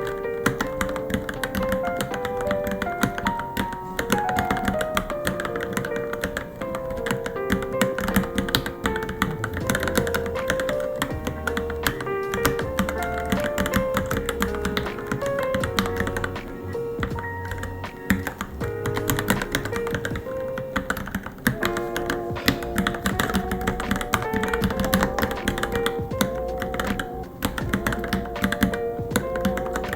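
Fast, continuous typing on a Varmilo Minilo mechanical keyboard: a steady stream of quick key clacks, over background music.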